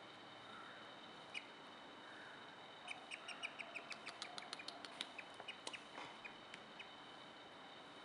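Young Rufous Treepie giving short, high squeaky chirps: a single one early, then a quick run of about four a second for three or four seconds in the middle.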